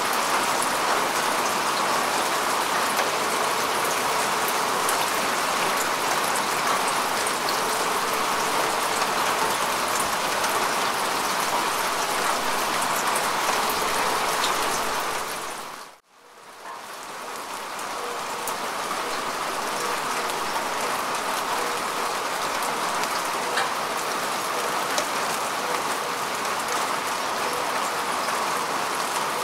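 Steady rain falling on grass and bare earth, a dense even patter with scattered sharper drop ticks. About halfway through it fades out to a moment of silence and swells back in.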